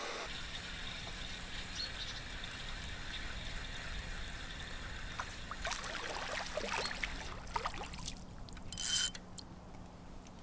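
River water lapping and trickling at the bank, a steady soft wash. About nine seconds in, a brief loud high-pitched hiss cuts across it.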